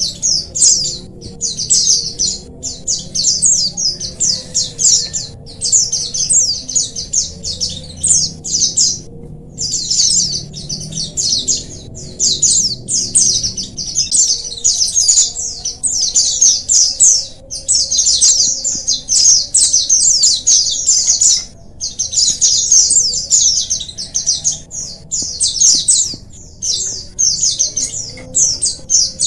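A colony of white-eyes (pleci) chirping together in a dense, unbroken chorus of quick, high twittering notes.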